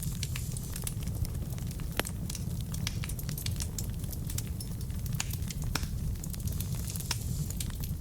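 Wood fire burning in a fireplace: a steady low rumble of the flames with irregular sharp crackles and pops from the logs, a few louder snaps scattered through.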